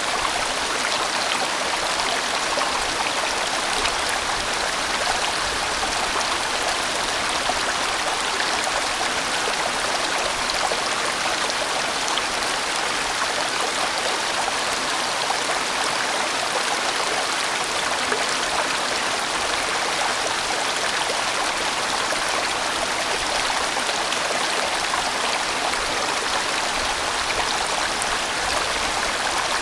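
A sizeable mountain stream rushing steadily over rocks, a full, even water noise without pauses.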